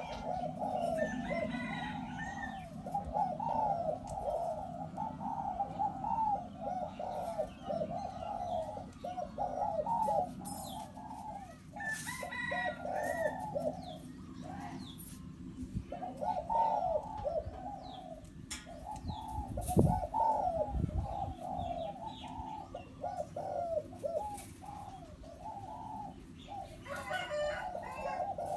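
Spotted dove cooing repeatedly, a hybrid decoy bird kept for trapping, giving phrase after phrase of low coos with only short gaps. Other small birds chirp now and then, and a dull thump sounds about twenty seconds in.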